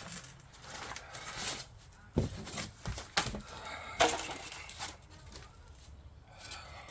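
Rustling and handling noise with a few sharp knocks as an electric bike is worked out of its cardboard box and packing, snagging on something.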